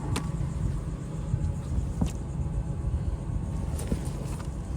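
A steady low rumble with a few light clicks scattered through it.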